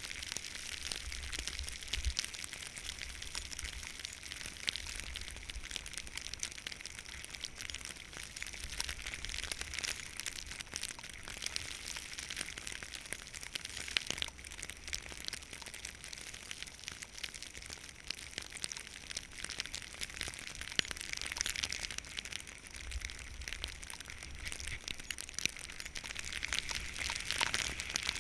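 Skis sliding and scraping over snow: a continuous crackling hiss with many small clicks, and a fluttering low rumble that comes and goes, like wind on the microphone.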